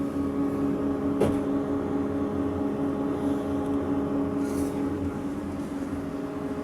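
Steady drone of a large car ferry's machinery heard on board: a constant hum of several fixed tones over a low rumble. There is a single sharp knock about a second in.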